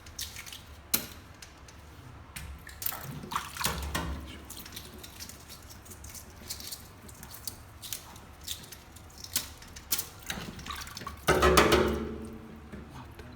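Kitchen handling sounds around a pot of boiled eggs: water dripping and splashing, with scattered clinks and knocks, and a louder clatter about eleven seconds in.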